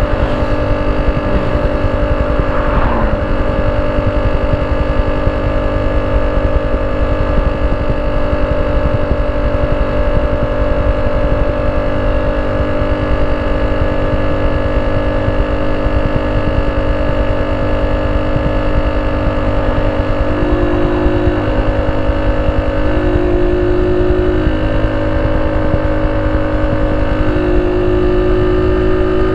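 Honda C70's small single-cylinder four-stroke engine running steadily at idle through a banana-type ('pisang') aftermarket exhaust, with a few slight changes in tone in the last ten seconds.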